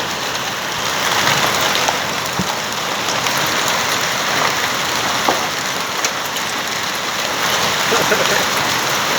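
Heavy rain falling steadily, with a few sharp ticks of impacts on hard surfaces.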